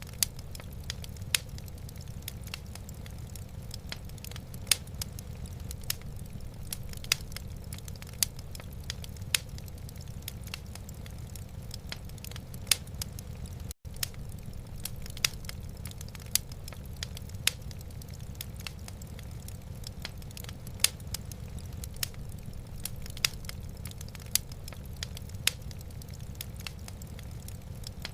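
Wood fire burning in a fireplace: irregular sharp crackles and pops from the logs over a steady low rumble. The sound cuts out for an instant about halfway through.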